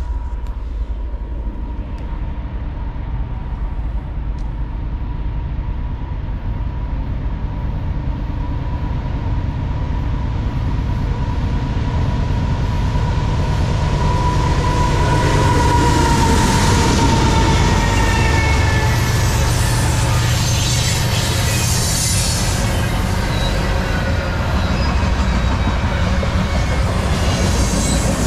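CSX freight train led by GE AC4400CW and ES44DC diesel locomotives, approaching and passing close by: engine rumble growing louder with a steady high ring. As the freight cars roll past in the second half, wheel squeal comes in.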